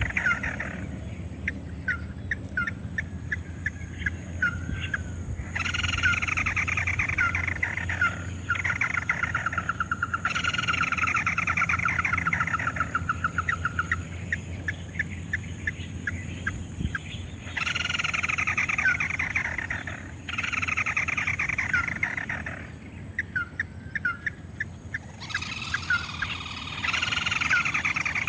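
Crake calls, the ruddy-breasted crake sought by the trapper: falling trilled phrases alternating with series of short sharp notes, about three a second, repeated in cycles over a steady low hum.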